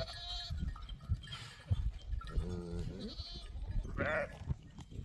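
Several separate bleats from a herd of goats and sheep, some higher and some lower in pitch, with low knocks and rumble between them.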